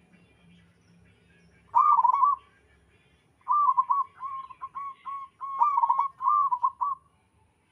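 Zebra dove (perkutut) cooing: a short trilled coo about two seconds in, then a longer run of quick repeated coos from about three and a half seconds to seven seconds. Faint chirps of other birds sound behind it.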